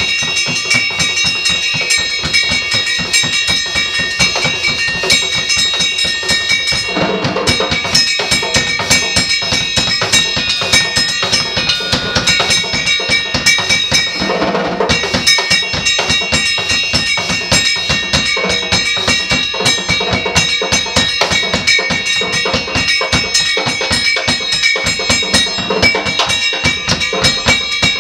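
Experimental percussion played in fast, dense, unbroken strokes, with steady high metallic tones ringing over the drumming.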